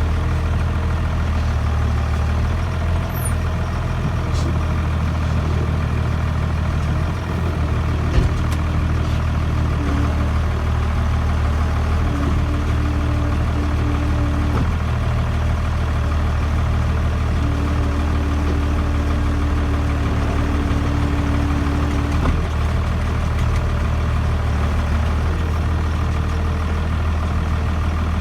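Case 5140 tractor's Cummins 5.9 diesel engine running steadily. A higher steady tone rises over it three times for a few seconds each in the middle, and there are a couple of light knocks.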